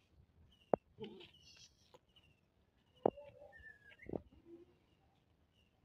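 A small bird chirping over and over, a short falling chirp about once a second, with three sharp knocks among the chirps.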